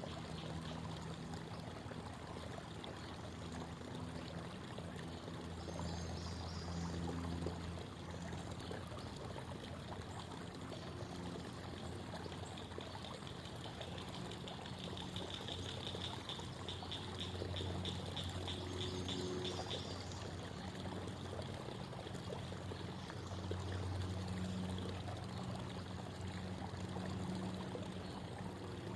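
Creek water babbling steadily over stones, with a rapid high trill for several seconds about halfway through.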